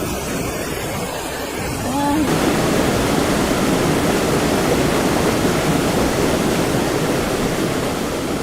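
Steady roar of typhoon wind and rushing water. About two seconds in a brief rising tone is heard, then the rush grows denser and louder.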